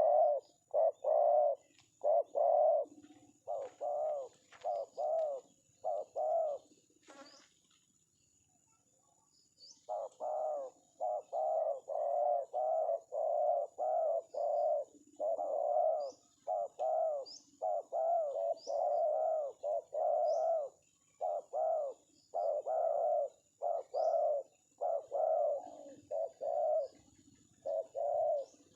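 Spotted dove (tekukur) cooing in a big, full voice: a long series of short repeated coo notes, about two a second, pausing from about seven to ten seconds in and then running on.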